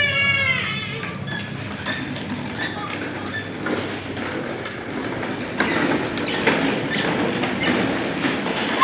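Ride-on toy off-road cars rolling with a steady clattering rattle of plastic wheels and bodywork. A brief high squeal comes at the start and again at the very end.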